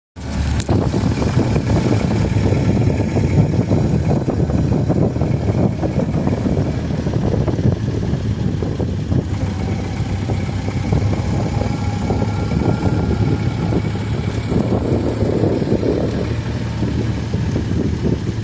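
Ford Model A truck's four-cylinder engine running steadily.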